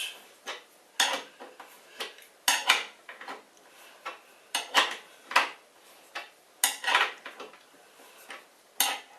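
Irregular metallic clicks and clinks, about a dozen, some ringing briefly, as a threaded levelling-foot bolt on a CNC machine table is screwed down.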